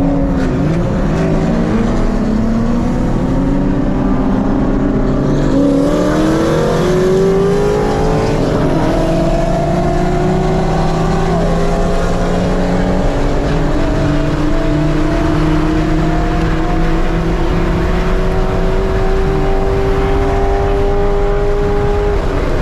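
Car engine at full throttle accelerating hard through the gears in a roll race: the pitch climbs, dips at gear changes about six, nine and eleven seconds in, then holds a long slow climb at high revs over road and wind noise. Near the end it drops suddenly as the throttle is lifted.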